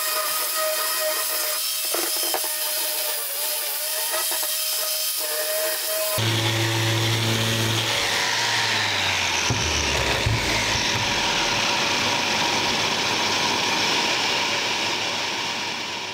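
A power tool working wood, its motor holding a steady pitch with a few clicks. About six seconds in, the sound cuts abruptly to a louder, noisier machine sound with a low hum, which begins to fade near the end.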